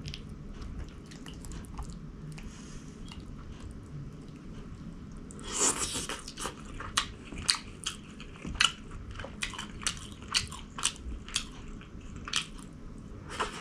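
Close-up eating sounds: a person biting and chewing food. Faint at first, then a loud crunching bite about halfway through, followed by a run of sharp crunches and mouth clicks about once or twice a second.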